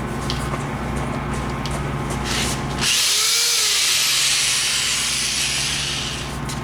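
Cordless drill boring into wood: a steady motor hum, then about three seconds in a louder hissing cut for roughly three seconds before it drops back to the hum.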